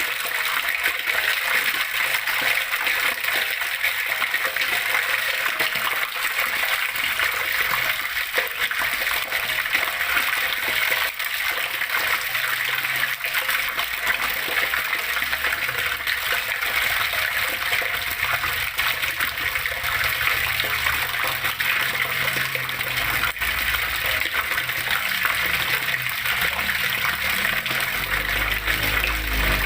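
Flowing water running and splashing steadily, a continuous rushing sound. A low rumble joins in the second half and is strongest near the end.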